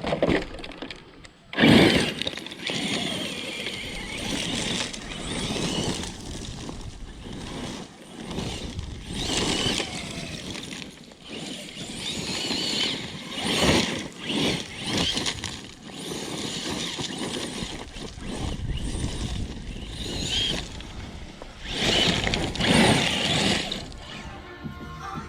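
Brushless electric motor of an RC basher truck (Castle 1721 1260kv) whining up and down in pitch as it is driven hard, with the tyres and chassis grinding and clattering over rocks. A loud crash comes about two seconds in.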